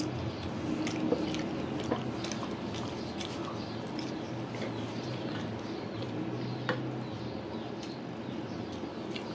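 Close-miked eating by hand: wet chewing with many short lip-smacking and mouth clicks as soft rice and curry are eaten, over a steady low hum.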